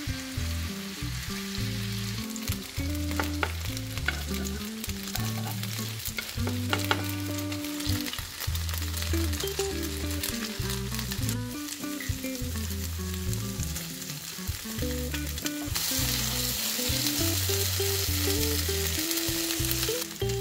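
Grated potato pancakes sizzling in hot oil in a frying pan, with sharp taps and scrapes of a spoon against the pan. The sizzle turns louder and hissier over the last few seconds.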